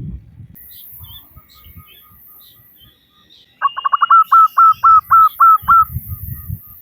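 Female zebra dove (perkutut) calling: a quick run of about a dozen clipped cooing notes that starts about halfway through, slows slightly and stops after about two seconds. Faint chirps of small birds come before it.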